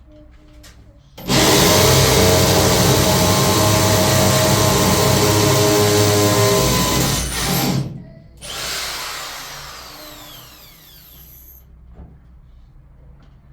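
A handheld power tool runs at full speed for about six seconds and stops. After a brief gap it is triggered again and winds down with a falling whine, fading out about three seconds later.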